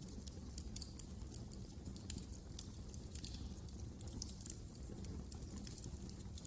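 Wood fire in a fireplace crackling, with frequent small sharp pops over a low, steady rumble of the flames.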